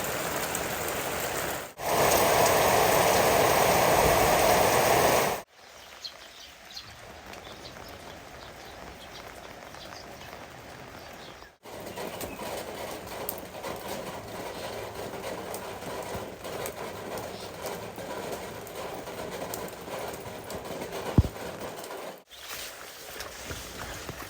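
Rain falling steadily as a hiss that jumps between heavier and lighter from one stretch to the next, heaviest about two to five seconds in. There is a single sharp knock near the end.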